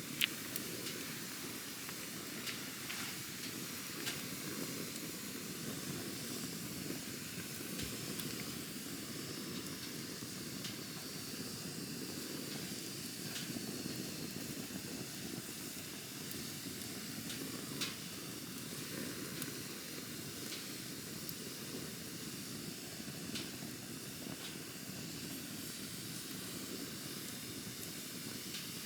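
Campfire burning steadily with a soft rushing and hiss of flames, broken by scattered sharp crackles and pops of the wood, the loudest right at the start and another a little before the 18-second mark. A thin high whistle wavers for several seconds midway.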